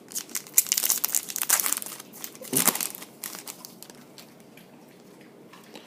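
Trading-card pack wrapper crinkling and rustling as it is handled and torn open, densest in the first two seconds, with another short burst a little past halfway, then fainter handling.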